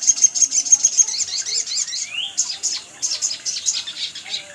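Sogon (sogok ontong) sunbird singing a fast, high twittering song of rapid chirps and trills, with a rising sweep about two seconds in and another near the end.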